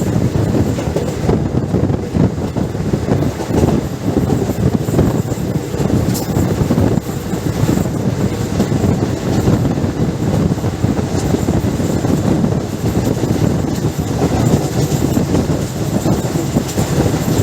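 Passenger train running at speed on Indian Railways: a steady, loud rumble and clatter of wheels on the rails and the moving coaches.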